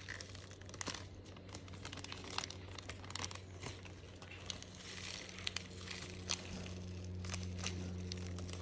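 Slime being handled and pressed, making crinkly crackling with many small clicks and pops, over a steady low hum.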